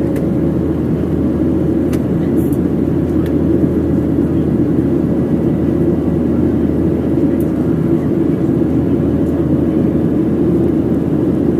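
Steady cabin noise inside a Boeing 737-700: its CFM56-7B jet engines and the airflow give a constant low rush with a faint steady hum, unchanging throughout.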